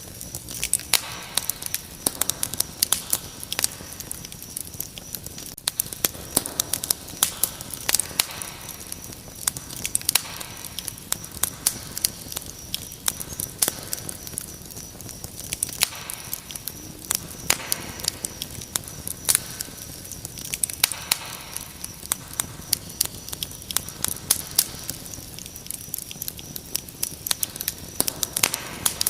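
Wood fire crackling with frequent sharp pops, over a steady high-pitched cricket trill.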